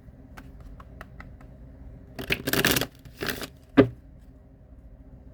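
Tarot cards being handled: a few light clicks, then two short bursts of shuffling or riffling, then a single sharp knock, likely the deck or a card set down on the table.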